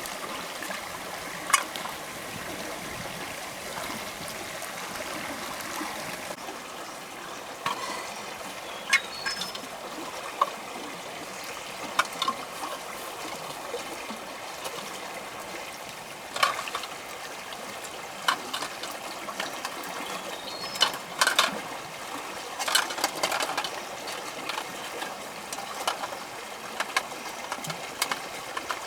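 Steady running water, like a forest stream, with sharp clicks and knocks scattered over it, more of them in the second half.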